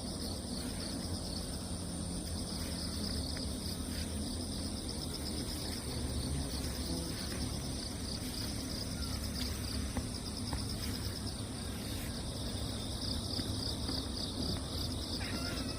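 Crickets and other grass insects chirping in a steady, continuous chorus: a fast pulsing trill with a thin high steady whine above it.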